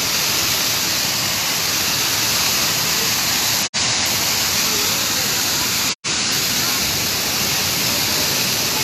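Waterfall pouring steadily, a loud even rush of water. The sound cuts out for a split second twice, about three and a half and six seconds in.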